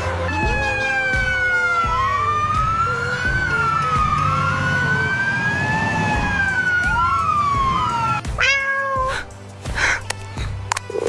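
Long wails slowly rising and falling in pitch, siren-like, over background music, then a single cat meow about eight and a half seconds in.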